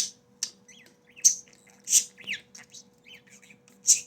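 Male budgerigar chattering at a nasal spray bottle it is courting: short, loud, high chirps every second or so with softer warbling between, one note sliding down in pitch.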